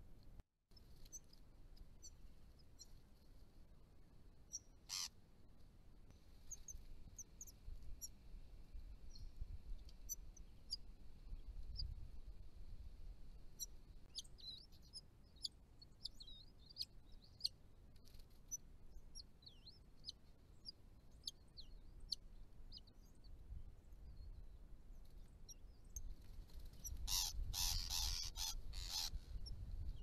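Small birds chirping: faint, short high chirps, scattered at first and thicker through the middle, then a louder, harsher rapid burst for about two seconds near the end.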